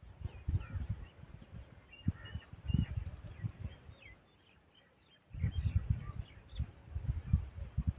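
Birds chirping in short, quick calls that slide up and down in pitch, over loud, irregular low rumbling on the microphone that is the loudest sound and drops away for about a second past the middle.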